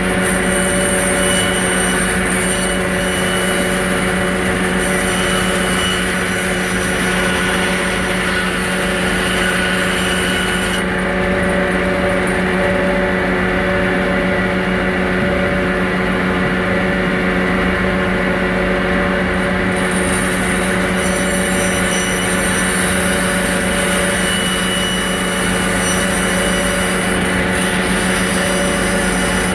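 A machine motor running at a steady pitch, an unbroken hum.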